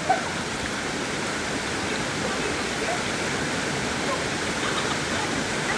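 Small waterfall pouring steadily into a plunge pool, an even rushing water sound. There is a short, sharp louder sound just after the start.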